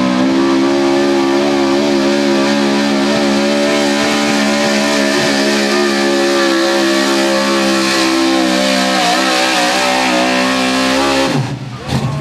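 Modified 4x4 pulling truck's engine held at high revs under full load down the track, its pitch steady with a slight waver. Near the end the throttle is cut and the engine note falls away suddenly.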